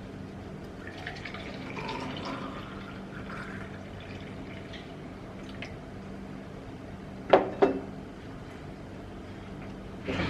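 Juice being poured and trickling into a container, faint and uneven, with the pitch rising in places as it fills. Two sharp knocks come close together about seven seconds in.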